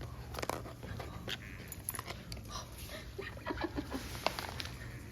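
Golden shepherd dog making a run of short, irregular sounds: small clicks and snuffles, with a few brief squeaky notes about three and a half to four seconds in.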